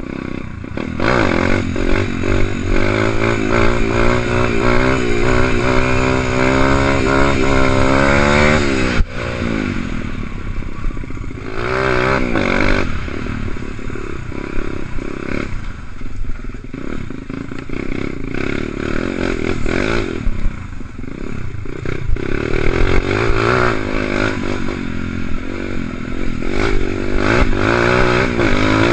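125 cc dirt bike engine revving under way, its pitch climbing for several seconds before dropping suddenly about nine seconds in, then rising and falling again and again with the throttle.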